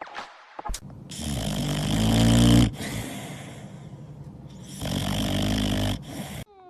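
Loud snoring: two long snores about three seconds apart, the first growing louder as it goes.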